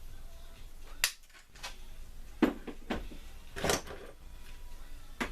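Clamps being loosened and taken off a freshly glued knife: several sharp knocks and clatters, a few seconds apart.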